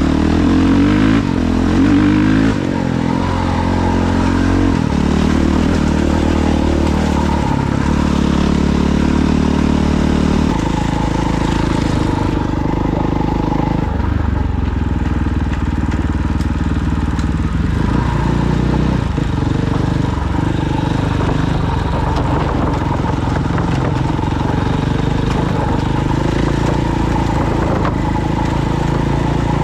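Off-road vehicle engine running hard, its pitch stepping up and down through the first ten seconds or so as the revs change, then holding steadier.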